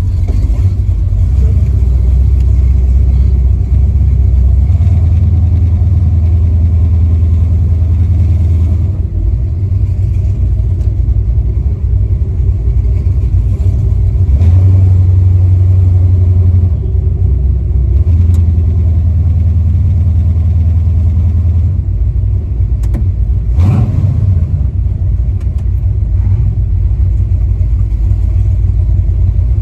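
V8 engine of a Chevy LUV pickup running on the road, a loud, deep drone that swells and eases every few seconds as the throttle opens and closes. A short knock is heard about three-quarters of the way through.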